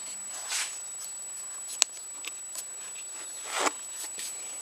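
Small handling noises of a part being fitted at a motorcycle's handlebar lever: one sharp click about two seconds in, a few lighter ticks, and two soft swishes.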